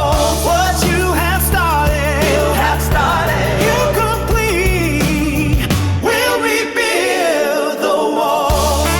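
Contemporary Christian pop song: a sung vocal melody over a band with a steady bass line.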